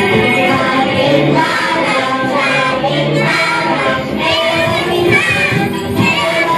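A group of young children singing together in the Atayal language over instrumental backing music.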